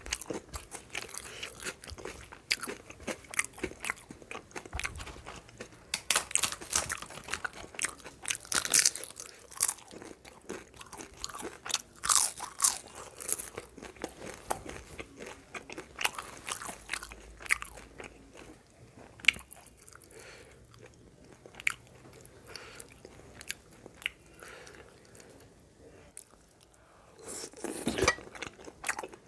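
Close-miked eating sounds: wet chewing, sharp irregular clicks and smacks as rice and mutton curry are eaten by hand. Near the end a louder cluster of sounds comes as a piece of mutton on the bone is bitten into.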